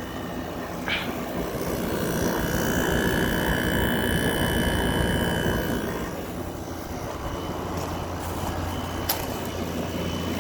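2024 Midea 5,000 BTU window air conditioner running just after start-up: the fan blows with a steady whine that swells for a few seconds and then fades. Near the end a low steady hum sets in as the compressor comes on, with one sharp click.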